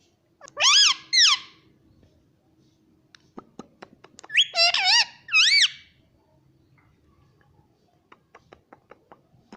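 Indian ringneck parrot giving high, squeaky pitched calls that bend up and down: two in quick succession about a second in, then three more a few seconds later. Soft light clicks fall between the calls.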